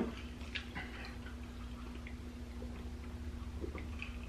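Quiet, scattered wet clicks and smacks of a person chewing food with the mouth closed, over a faint steady hum.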